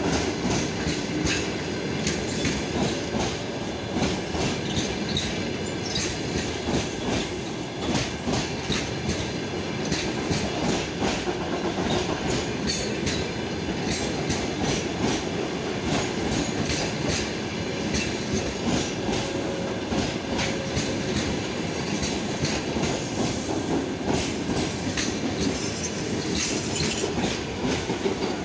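Passenger train coaches rolling along the rails, their wheels clicking steadily over the rail joints.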